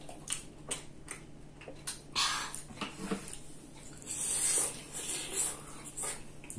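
Close-miked eating sounds: chewing and mouth smacking on a lettuce-topped burrito bowl, with scattered clicks of a fork and chopsticks against the bowls. A louder noisy burst of chewing comes about two seconds in and again about four seconds in as a big forkful goes into the mouth.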